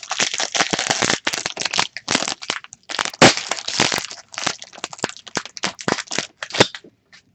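Foil trading-card pack wrapper being torn open and crinkled by hand, a dense run of irregular crackles that stops shortly before the end.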